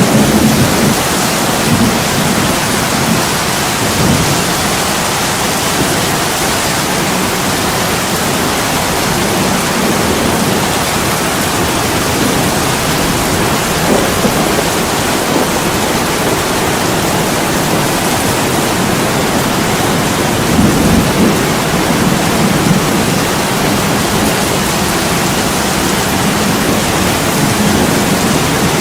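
Heavy rain pouring steadily on an attic window, an even hiss with a few brief low swells underneath, the clearest about twenty seconds in.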